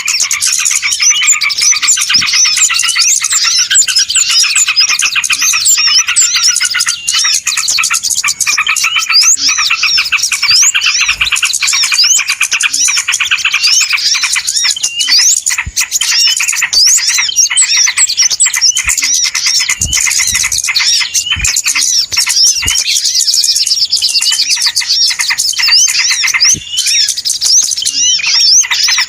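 Many small birds chirping and twittering at once in a dense, unbroken chatter, a noisy bird-lure recording (suara pikat) of the kind played to draw small birds in.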